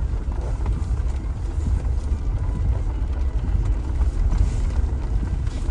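Steady low rumble of a vehicle driving, with no breaks or sudden events.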